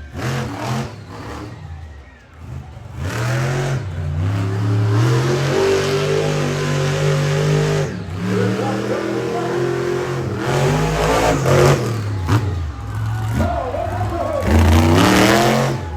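Monster truck engine revving hard, its pitch climbing and dropping again and again as the throttle is worked.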